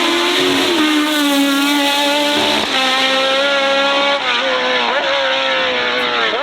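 Race car engine held at high, fairly steady revs, dipping briefly a few times and climbing sharply again near the end.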